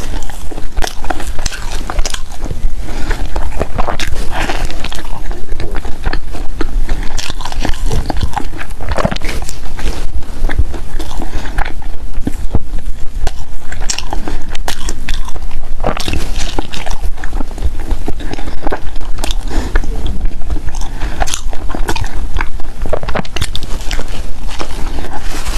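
Close-miked eating: steady, irregular biting and chewing of bread, with many small crackly, moist mouth sounds.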